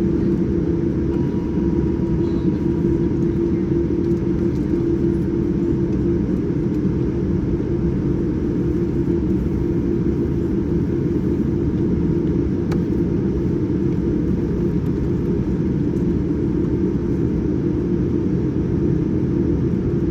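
Steady low rumble of a Boeing 787-9 heard inside the passenger cabin, with an even hum under it and no change in pitch.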